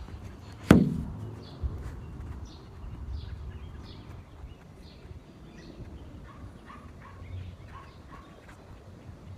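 Small birds chirping with short repeated calls, broken about three-quarters of a second in by a single sharp thump, the loudest sound.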